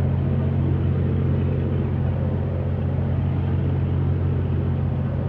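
A steady low rumble, like a motor running, holding an even level throughout.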